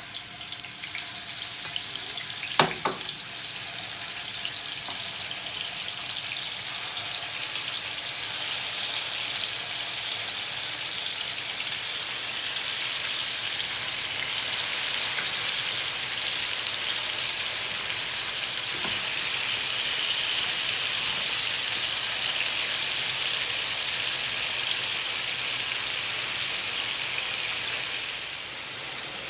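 Marinated chicken pieces frying in hot oil, a steady sizzle that swells about eight seconds in and eases off near the end. A single sharp knock about three seconds in.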